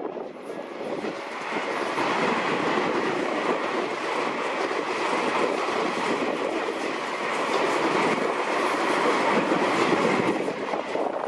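Tobu Skytree Line electric train passing the level crossing at close range, its wheels running on the rails. The sound builds about two seconds in, holds, and eases off near the end.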